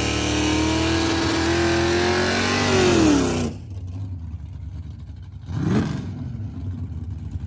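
Drag racing car engine held at high revs, its pitch climbing slowly, then dropping and cutting off sharply about halfway through. After that a lower, quieter engine rumble carries on, with one quick rev-and-fall a couple of seconds later.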